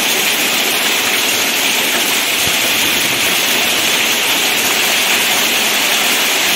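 Heavy rain pouring onto wet, puddled ground: a steady, dense hiss of drops splashing on standing water.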